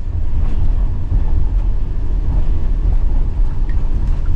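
Low, steady rumble of a vehicle driving, heard from inside the cab.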